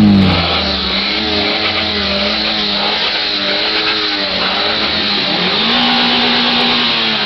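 Alfa Romeo 155 1.8's four-cylinder engine being revved at standstill and heard from the exhaust. The revs fall away at the start and hover with small wavering blips. About five and a half seconds in they rise, are held briefly, then drop again near the end.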